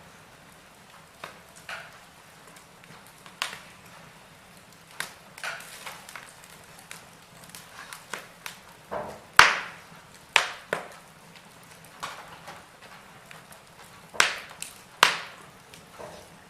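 Wood fire in a fireplace crackling, with irregular sharp pops over a faint hiss; the loudest pop comes about nine seconds in.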